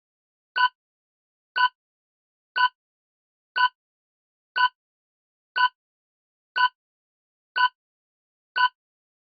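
Countdown-timer tick sound effect: short, identical clicky ticks exactly once a second, nine in a row, with silence between them.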